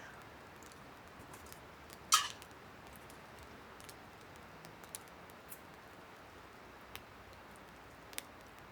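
Small clicks and taps from handling Trangia camp-stove parts, with one louder, sharp clink about two seconds in.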